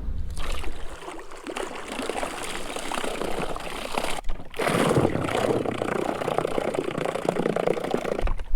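Water splashing and trickling, a steady crackly wash that breaks off briefly about four seconds in.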